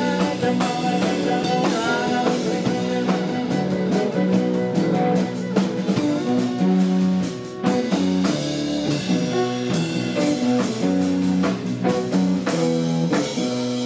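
Live blues band playing an instrumental passage: guitar over a drum kit, with no singing.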